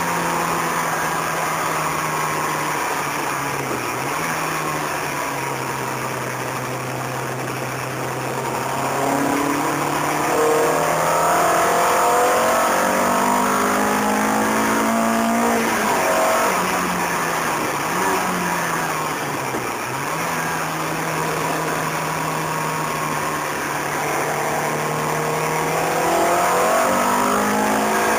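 Peugeot 306 GTi-6 engine heard from inside the cabin under track driving, over steady road and wind noise. The revs climb hard about a third of the way in, drop sharply at several gear changes a little past halfway, then climb again near the end.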